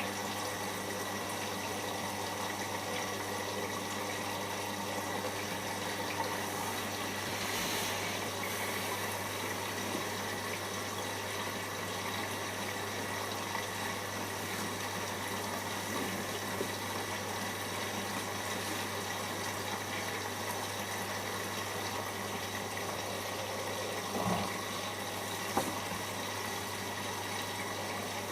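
Siemens iQ 1430 washing machine in its first rinse: water running and sloshing in the drum over a steady hum. There is a brief thud about 24 seconds in.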